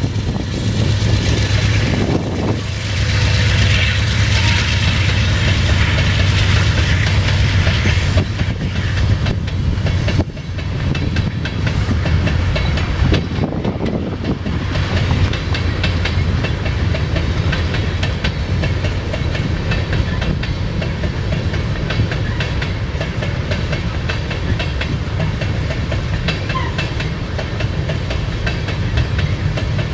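Diesel freight locomotives running as a freight train goes by, their engines loudest in about the first ten seconds. After that the train cars roll on steadily, with a constant clickety-clack of wheels on the rails.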